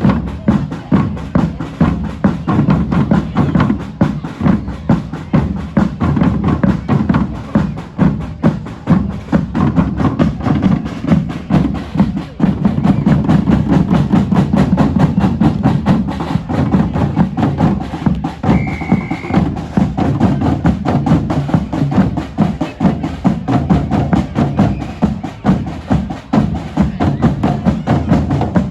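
A drum band playing a fast, driving rhythm together on bass drums and snares, with sharp block-like clicks on top.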